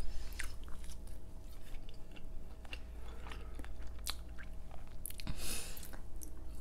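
Close-miked mouth sounds of someone chewing and biting soft, non-crispy potato wedges: many small wet clicks and smacks. A short hiss comes about five and a half seconds in, over a steady low hum.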